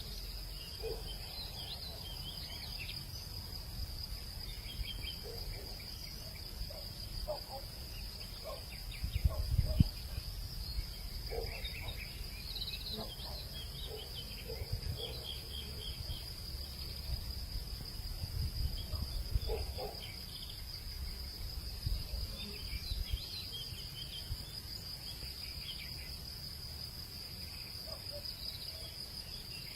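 A steady, unbroken high-pitched insect drone, with scattered short chirps of birds or other small animals over it and a low rumble of wind underneath. A louder low bump comes about ten seconds in.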